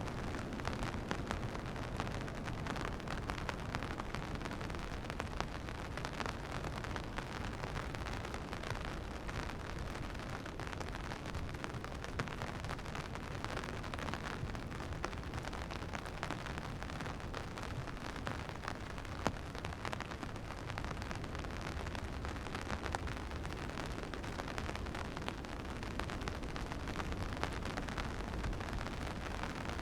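Steady rain falling: an even hiss scattered with many small drop ticks, over a low rumble.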